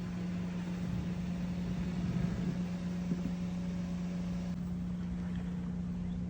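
A car running with a steady low hum, which changes slightly in tone about two-thirds of the way through.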